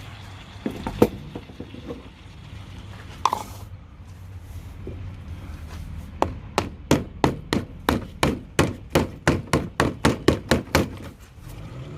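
Sharp knocks from tool work on a push mower's wheel bearing: two single knocks, then a regular run of about seventeen quick knocks, roughly three to four a second, starting about six seconds in and stopping near the end.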